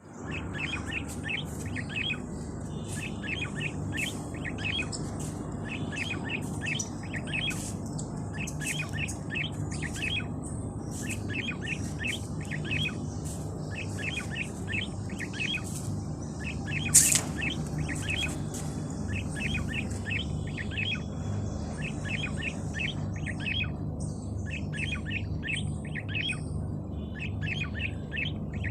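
Small birds chirping continuously in rapid, repeated short notes over a steady low background rumble. One sharp, much louder note cuts through about two-thirds of the way in.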